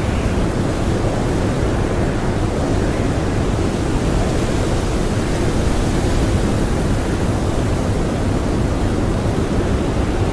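Blizzard wind blowing, a steady even rushing noise with no gusts or breaks.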